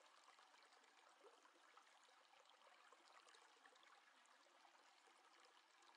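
Near silence: faint room tone with tiny scattered ticks.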